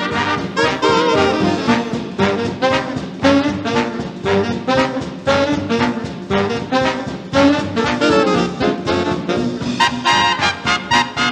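Up-tempo swing jazz with a brass section of trombones, trumpets and saxophones playing an instrumental passage over a fast, driving beat.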